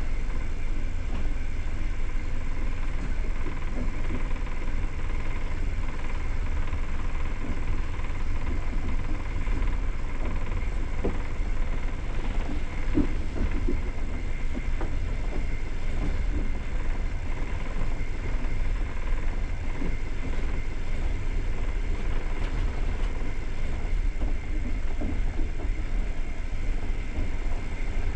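A moving passenger train heard from inside the carriage: the steady low rumble of wheels running on the rails, with a faint steady whine and a couple of light knocks partway through.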